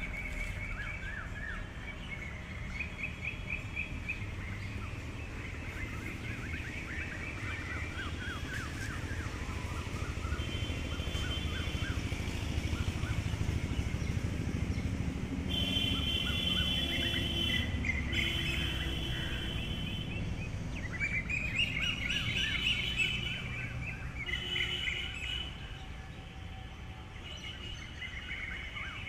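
Songbirds chirping and singing, several overlapping calls of short repeated notes and quick trills, over a low steady background rumble.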